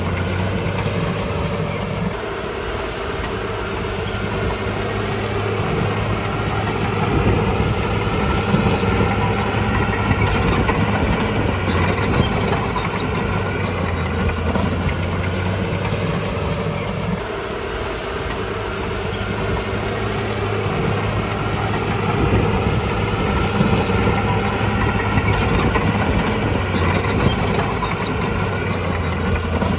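Heavy diesel engine of a bulldozer running steadily, its note shifting as the load changes, with a couple of sharp metallic knocks.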